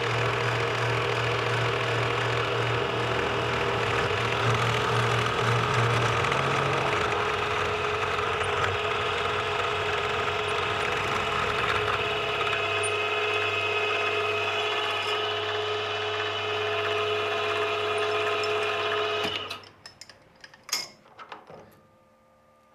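A metalworking machine tool running steadily under a cut, its low hum stepping down a little partway through. It shuts off near the end, followed by a few light clicks of handling.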